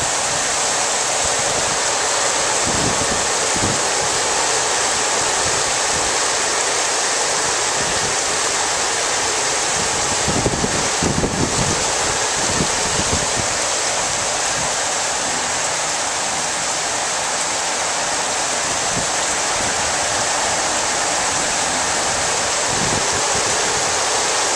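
Heavy downpour: a steady, loud rush of rain pouring down. Around the middle, a few seconds of wind gusts buffet the microphone.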